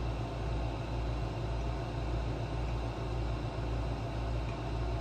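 Steady low mechanical hum with a slight regular pulsing, over a faint even hiss.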